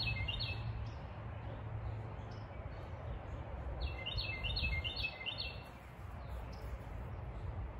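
A songbird singing a quick run of about four repeated notes, once right at the start and again about four seconds in, over a steady low background rumble.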